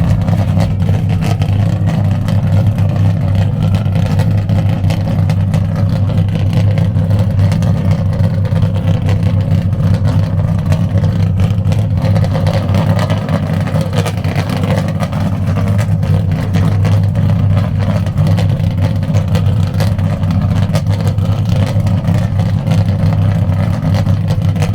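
Boat engine running steadily at a constant speed, a loud even low drone with no revving.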